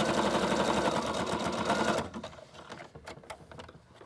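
Domestic sewing machine stitching at a fast, even rate through a padded fabric cover, stopping about two seconds in. A few faint clicks follow.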